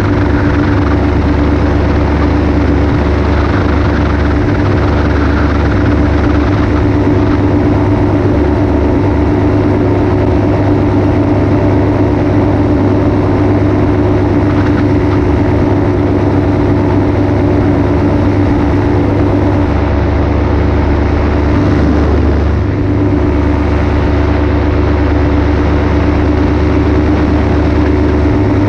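Paramotor engine and propeller running steadily in flight: a loud, constant drone that eases slightly for a moment about three quarters of the way through.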